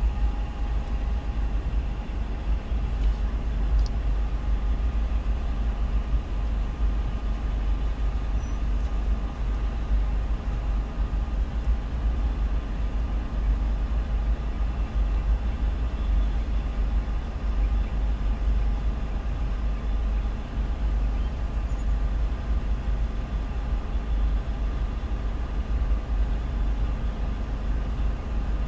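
Freight train of tank cars rolling past, heard from inside a car as a steady low rumble.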